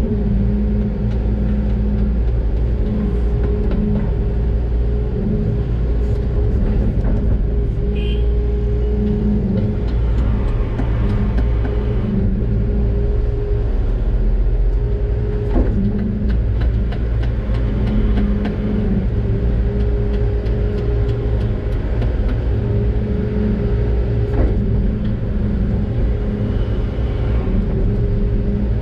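Doosan DX600 excavator's diesel engine running steadily under working load, heard from the operator's cab. Two sharp knocks come about 16 and 24 seconds in.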